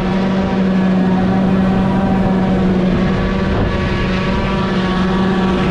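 Heavy farm machinery running steadily at constant speed, a loud even drone with a strong steady hum, typical of a tractor and forage chopper at work in the hay field.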